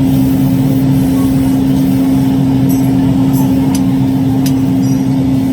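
Machinery running with a steady, loud hum, and a few light clicks in the middle.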